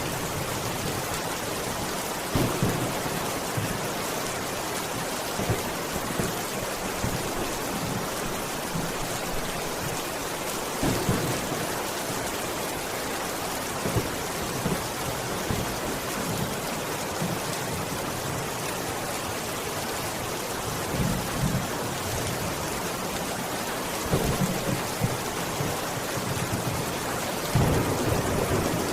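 Steady rain falling, with a few short, low rumbles of thunder rising out of it now and then, strongest near the end.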